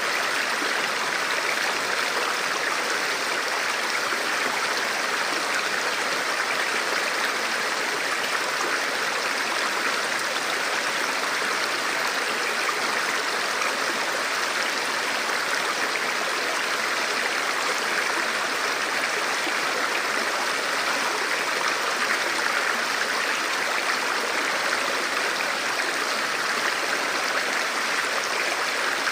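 Forest river or stream flowing over rocks, a steady rushing water sound.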